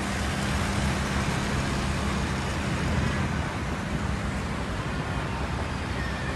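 Steady hiss of heavy rain and hail falling, with a low motor hum underneath that fades out about four seconds in.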